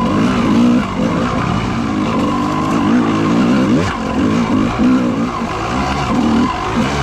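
Motocross dirt bike engine being ridden hard, its pitch rising and falling again and again as the throttle is opened and shut.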